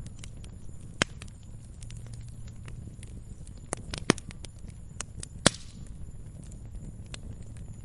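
Wood fire burning in a fireplace: scattered sharp crackles and pops over a low steady rumble of the flames, with the loudest pops about a second in, around four seconds and about five and a half seconds in.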